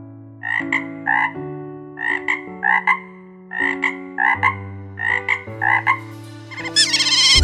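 Short animal calls, about a dozen and mostly in pairs, repeat over background music of sustained chords. Near the end a loud, high, sweeping, warbling call begins.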